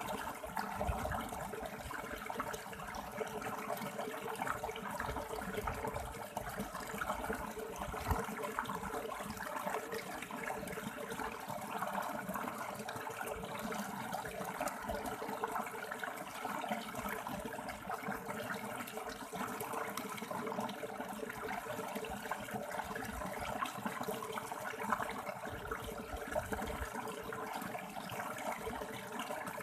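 River water flowing and splashing over stones in a steady, unbroken rush.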